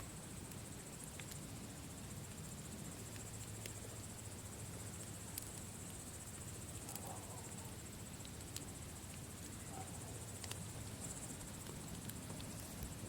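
Campfire burning, with sharp crackles and pops every second or two over a low steady rumble. A steady high-pitched chirring runs behind it.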